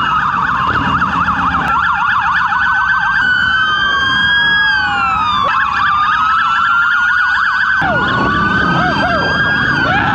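Police sirens, more than one at once, moving between a fast yelp and a slower rising-and-falling wail, then back to the yelp near the end.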